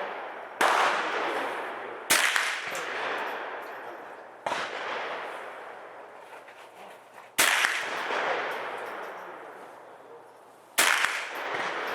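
Five single shots from a Sig 522 .22 LR rimfire rifle, fired at an uneven pace a second and a half to three seconds apart, each with a long echoing decay.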